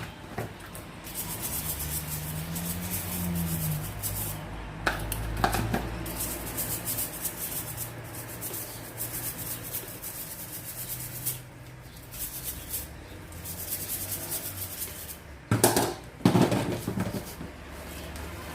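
Scrubbing and rubbing on a dishwasher's filter and parts while they are washed by hand, with a few clattering knocks as the parts are handled; the loudest knocks come near the end.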